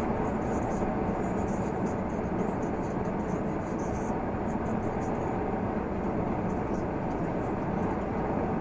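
Renault Magnum 480 truck under way, its 13-litre straight-six diesel and the road noise making a steady, even drone.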